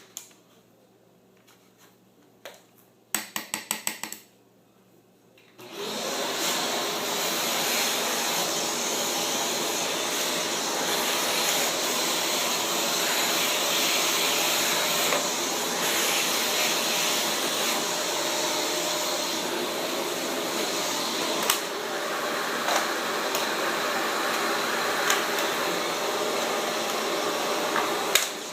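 A quick run of clicks, then about six seconds in a Shark Rotator upright vacuum starts and runs steadily, picking up spilled dirt, with a few sharp ticks along the way.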